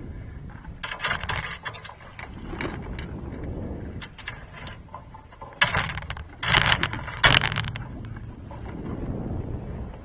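Noise aboard a small sailing yacht at sea: a steady low rushing sound with several short, loud bursts, the loudest about six to seven and a half seconds in.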